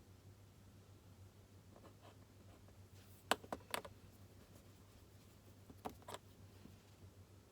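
Quiet desk work: four light, sharp clicks in two close pairs, about halfway through and again a couple of seconds later, from small objects handled on a desk, over a faint steady hum.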